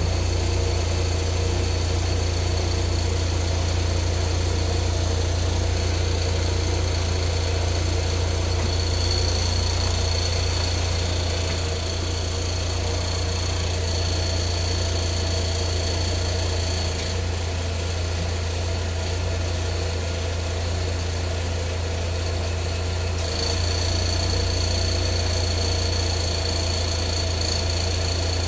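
2004 Saab 9-3's 2.0-litre turbocharged four-cylinder engine idling steadily with a rattle, which the owner takes for the accessory belt tensioner. A thin high whine sits over the idle.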